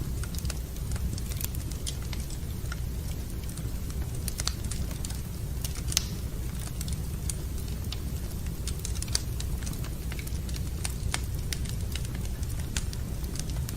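Wood fire burning in a fireplace: irregular crackles and pops over a steady low rumble, with a sharper pop about six seconds in and another around nine seconds.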